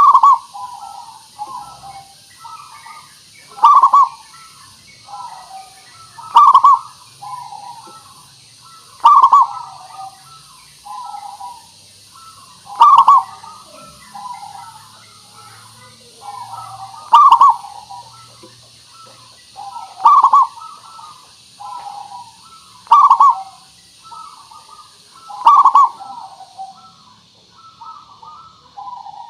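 Zebra dove (perkutut) cooing its song, about ten phrases roughly three seconds apart. Each phrase is a loud coo followed by a run of softer rolling notes, over a steady faint high hiss.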